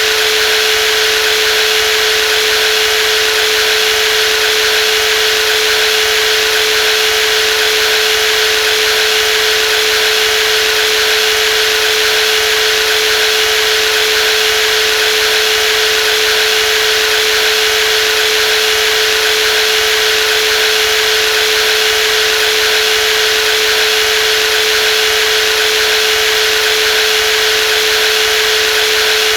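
Brushless jigsaw running steadily at constant speed: one unchanging whine over an even hiss, with no change in pitch or level.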